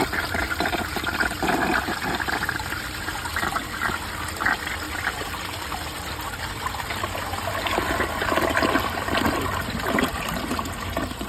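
1968 American Standard Cadet toilet flushing with its tank overfilled: water rushes and swirls down through the bowl for the whole stretch, surging again near the end.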